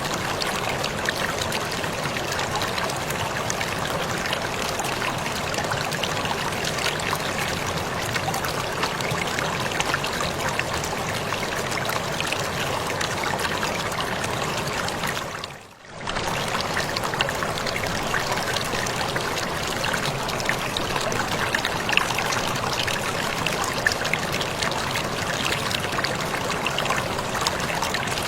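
Waterfall splashing in a steady, dense rush of falling water. The sound dips briefly and comes back about halfway through.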